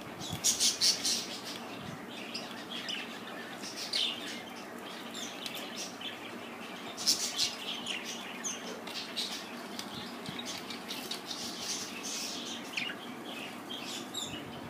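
Pet budgerigars chirping in clusters of quick, high chirps, loudest about half a second in and again around the middle.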